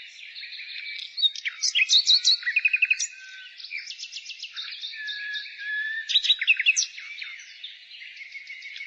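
Several songbirds singing at once, a dense chorus of overlapping chirps, rapid trills and whistled notes, with the loudest runs of quick notes about two seconds in and again near the seven-second mark.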